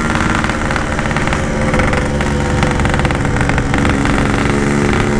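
Yamaha RX-King two-stroke single-cylinder engine running at a fairly steady speed through its exhaust, with wind rumble underneath. The bike is down on power and won't pull, which the rider blames on a carburettor that needs setting.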